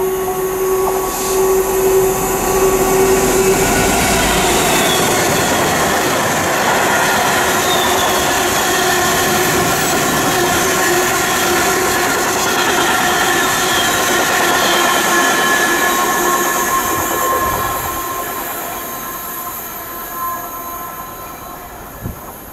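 DB freight train of covered steel-coil wagons rolling through the station: a steady heavy rumble with high ringing wheel squeal. The sound fades over the last few seconds as the end of the train passes.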